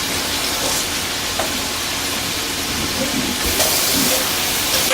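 Battered chicken frying in hot oil: a steady sizzle that swells briefly louder about three and a half seconds in.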